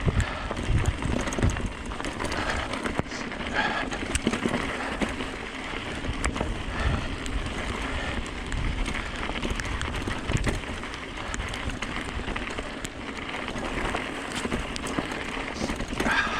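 Hyper 29er mountain e-bike rolling down a wet dirt trail: tyres crunching over gravel and rock, with scattered sharp clicks and rattles from the bike over bumps and a low irregular rumble.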